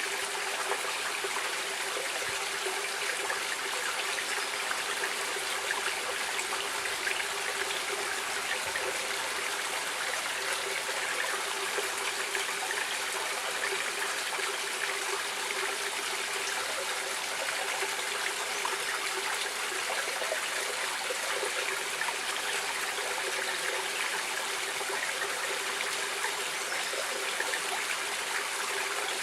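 Stream water running over rocks, a steady even rush with fine trickling and splashing.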